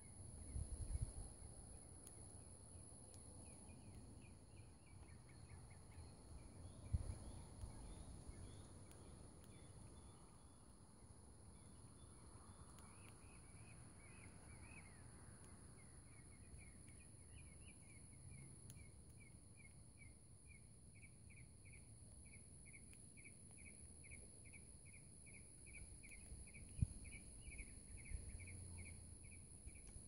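Faint birdsong: a songbird repeating short, slurred notes in long, even series, about three a second at times. A steady high-pitched whine runs throughout, with a few soft low thumps.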